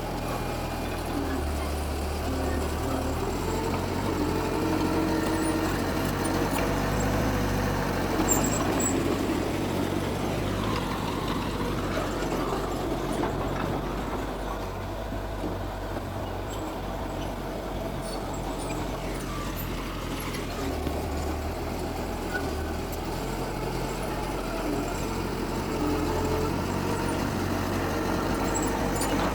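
Heavy diesel engines of earthmoving machinery, dump trucks and a bulldozer, running steadily as they work. The low drone swells and eases a few times.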